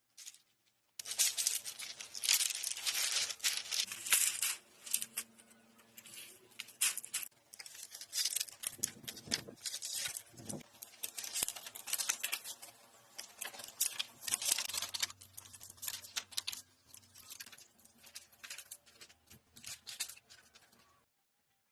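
Rustling, tearing and crackling of dry plant material such as leaves, grass or twigs being worked by hand, in irregular bursts with short pauses. It cuts off suddenly near the end.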